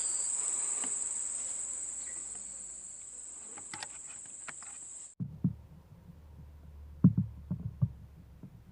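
Steady high-pitched insect drone, growing fainter and cutting off suddenly about five seconds in. After it comes a low rumble with a few short soft thumps.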